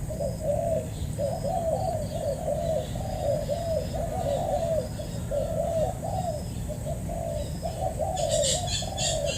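Spotted doves cooing over and over in quick, unbroken phrases. Faint short high whistles from another bird run above them, and near the end a quick high clicking starts up.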